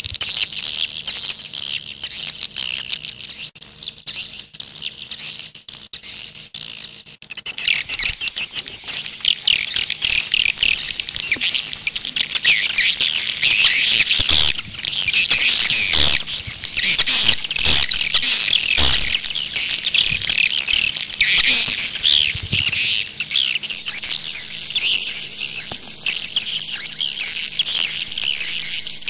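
Swiftlet lure call: a dense, chattering twitter of many swiftlets, the kind of recording played to draw swiftlets into a nesting house. The chirping grows louder and thicker about a quarter of the way in and is busiest around the middle.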